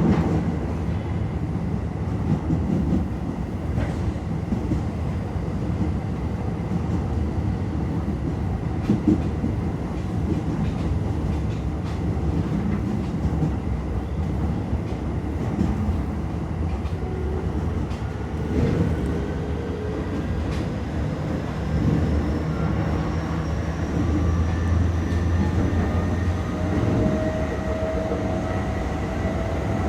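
Toei 10-300 series electric train running on the Keio Line, with a steady rumble of wheels on rail. Through the second half, the whine of its Mitsubishi IGBT-VVVF inverter and traction motors rises slowly in pitch as the train picks up speed.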